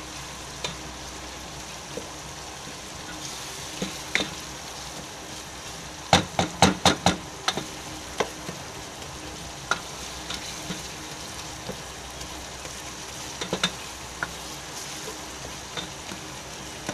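Onions and tomatoes frying in oil in a large pot, a steady sizzle, while a spoon stirs them, knocking now and then against the pot. Around six seconds in comes a quick run of about six knocks.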